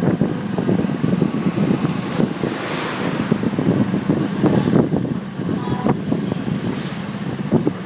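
Motorcycle riding, heard through a phone mounted on the bike: wind buffets the microphone in gusts over the engine's steady hum. A rushing hiss swells and fades about three seconds in.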